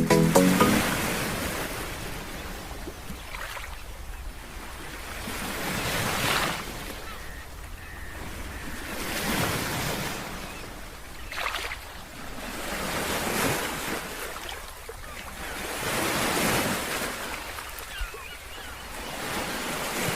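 Sea waves breaking and washing up the beach in slow surges every three to four seconds, each swelling and dying away, with some wind on the microphone.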